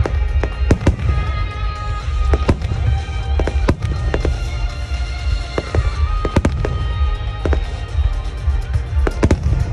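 Fireworks going off in quick, irregular succession: sharp bangs and crackles over a continuous low rumble, with music playing alongside.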